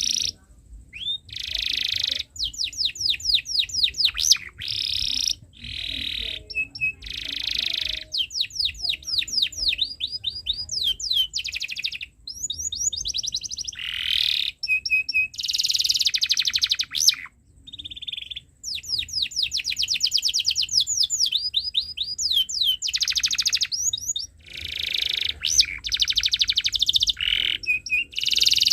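Canary singing in long, loud phrases of fast trills (runs of rapidly repeated sweeping notes) alternating with buzzy rolls and chirps, with only brief pauses between phrases.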